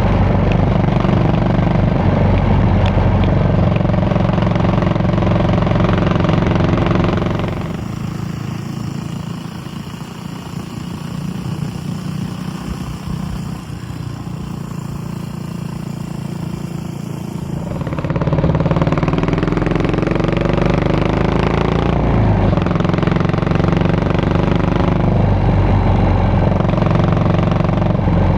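Yamaha SR400 single-cylinder motorcycle engine and exhaust running, dropping much quieter for about ten seconds in the middle. When it comes back it is revved a few times, the note rising and falling.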